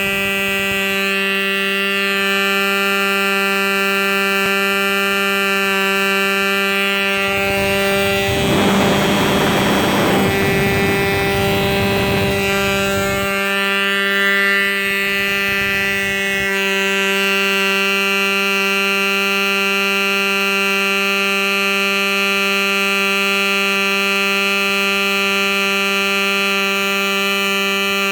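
Enya .19 two-stroke glow engine of a model airplane running steadily at a high, even pitch. A broad rushing noise rises over it for several seconds around the middle.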